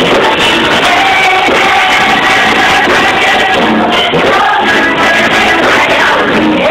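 A group of children singing a gospel song over loud musical accompaniment, with long held notes.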